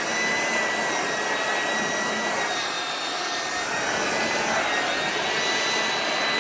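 Handheld hair dryer with a duck-bill concentrator nozzle running steadily: a loud airy rush with a high, steady whine.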